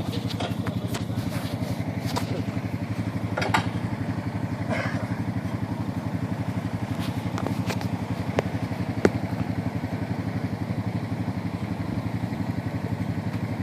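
Honda ATV engine idling steadily with an even, rapid pulse, with a few sharp clicks and knocks over it.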